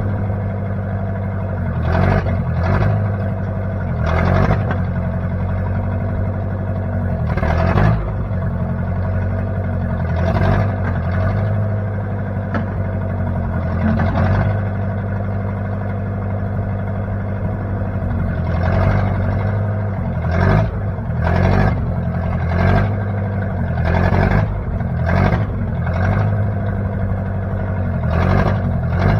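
Engine of a 1960 Case 540 backhoe running steadily, with short louder clattery bursts every second or two, more often in the second half.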